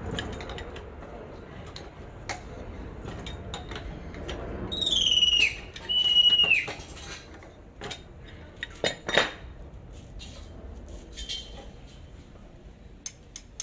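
Metal clinking and knocking of tools and parts while working on a hand pallet truck, with two short high-pitched squeals about five and six seconds in, the first falling in pitch.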